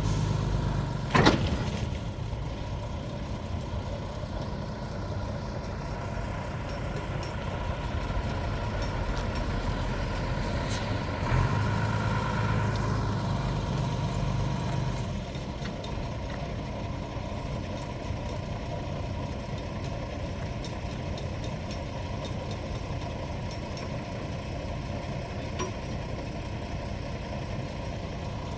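An engine idling steadily, with one sharp knock about a second in. It runs a little louder for a few seconds around the middle.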